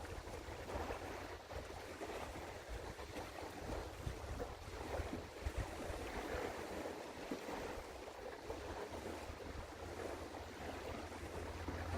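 Wind gusting over an outdoor microphone, buffeting it with irregular low rumbles, over a steady wash of river water.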